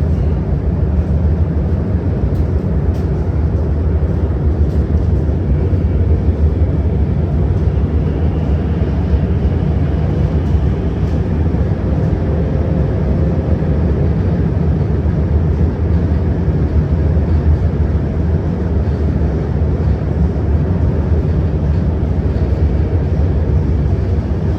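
Steady running noise of a CRRC Qingdao Sifang Type A metro train heard from inside the car: a loud, even rumble of wheels on rail and the running gear between stations, with a faint thin whine a little past the middle.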